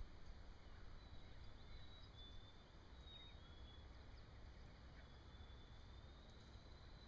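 Near silence outdoors: faint, short high chirps and whistles of distant songbirds over a low, steady rumble.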